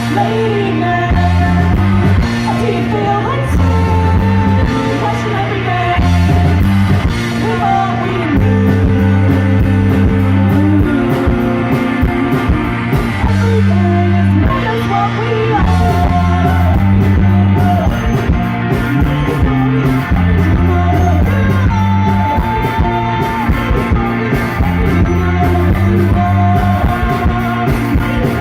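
A live indie pop band playing a song loudly: a pulsing bass line, electric guitar, drums with cymbal hits, and a sung vocal melody on top.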